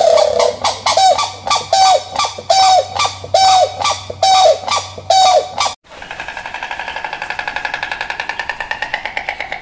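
Grey crowned crane giving a run of loud, short honking calls, a little under one a second, each dropping in pitch at the end. About six seconds in this cuts to a rapid, even rattle, the bill-clattering of white storks.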